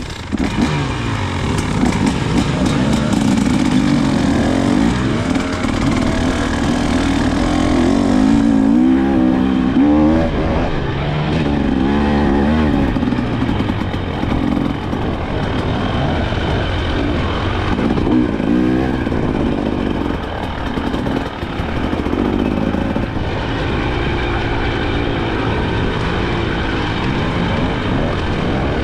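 KTM 300 XC-W two-stroke single-cylinder enduro engine being ridden, its revs rising and falling again and again as the throttle opens and closes.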